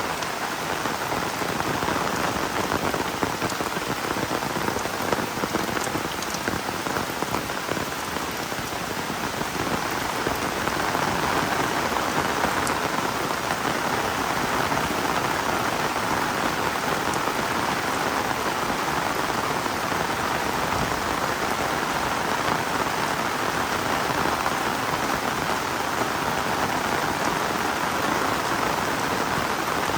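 Heavy rain falling steadily in a dense, even hiss that grows slightly heavier about a third of the way in.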